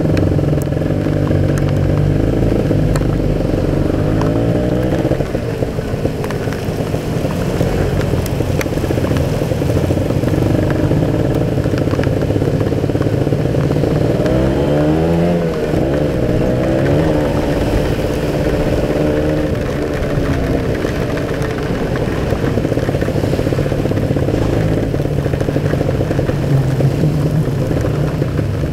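Kawasaki Ninja 150 RR's single-cylinder two-stroke engine running under way, heard through the rider's helmet. Its note rises and falls with the throttle and gear changes, most plainly about four seconds in and again around the middle.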